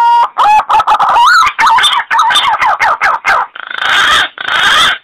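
Recorded punai (green pigeon) lure call: a long whistle sliding up in pitch, then a quick run of wavering, gliding notes, then three harsh rasping calls near the end.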